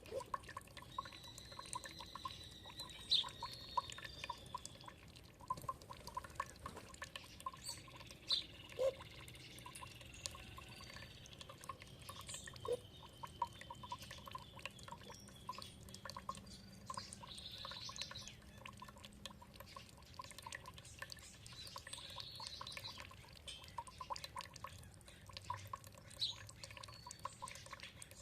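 Water dripping and trickling in a steady run of small ticks, with songbirds chirping and whistling now and then above it, some notes sliding down in pitch.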